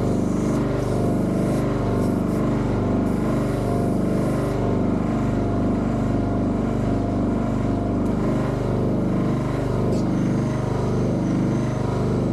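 A small motor-driven machine running steadily with a low, pulsing hum.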